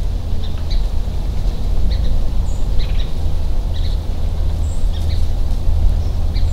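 Scattered short bird chirps, a dozen or so brief calls, over a steady low rumble.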